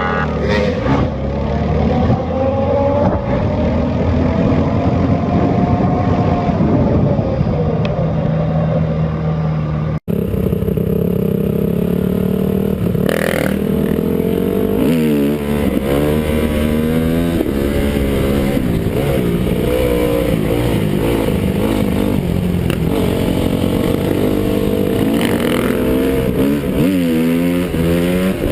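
Dirt bike engines running and revving, their pitch climbing and falling again and again. About ten seconds in the sound cuts abruptly to several engines revving at once, their pitches overlapping.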